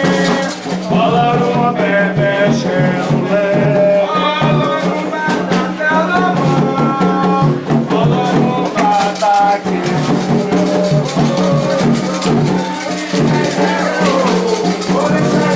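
Candomblé ritual chant sung by voices, accompanied by shaken rattles and percussion in a continuous beat.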